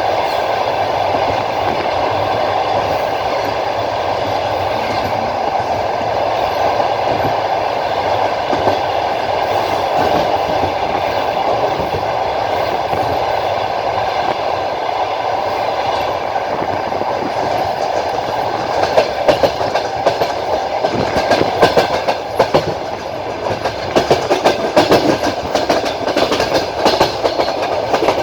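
Passenger train carriage running along the track: a steady rumble of wheels on rails, with sharp clickety-clack of the wheels over rail joints coming through more strongly in the last third.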